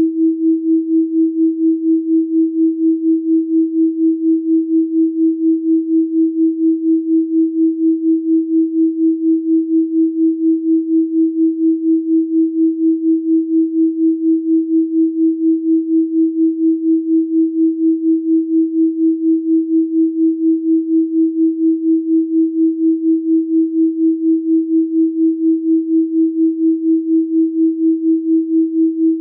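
A steady electronic pure tone at 324 Hz, pulsing evenly in loudness about three times a second, as two slightly detuned tones beat against each other.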